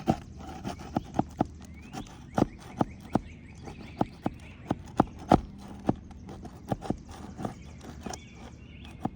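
Roofing nail being forced out from under an asphalt shingle with metal tools: a run of irregular sharp knocks and taps, several a second at times, the loudest about five seconds in.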